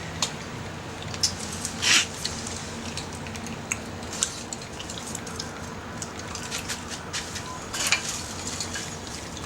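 Small wood fire in a compact fire grill crackling over a steady hiss, with irregular sharp pops, the loudest about two seconds in and again near the end.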